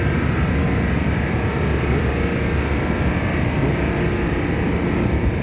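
Steady low drone of a car ferry's engines heard from inside the ship, with a faint steady hum running through it.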